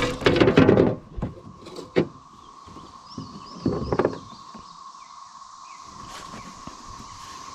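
Knocks and thumps of a just-landed big fish being handled in a kayak: a loud jumble in the first second, then a few single knocks about a second or two apart, over a steady high hum.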